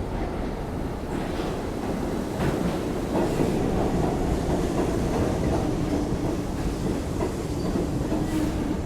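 Train running along the track: a steady rumble with a few sharp clacks from the wheels passing over rail joints.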